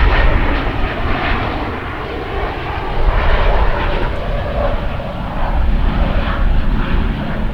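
Jet airliner engines at close range: a loud, rough rushing noise with a deep rumble, swelling and easing over several seconds.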